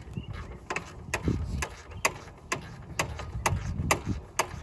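Socket ratchet clicking in a steady run, about two clicks a second, as a brake caliper bolt is backed out.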